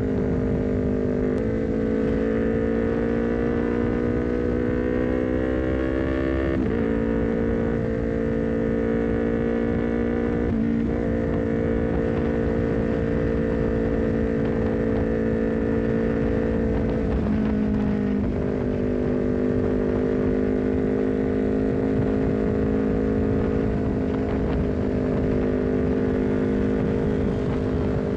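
Honda CBR250RR parallel-twin engine breathing through a Leovince GP Corsa short carbon silencer, running under way at fairly steady revs. The pitch climbs slowly for a few seconds, then dips briefly a few times, once around a second long near the middle.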